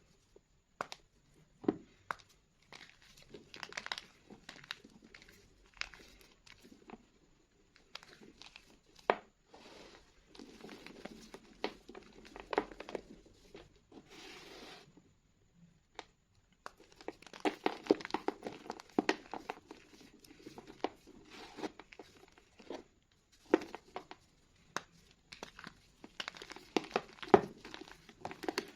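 Reformed school chalk being crushed and crumbled by hand: irregular dry crunches and crackles in clusters, with a brief soft powdery hiss about halfway.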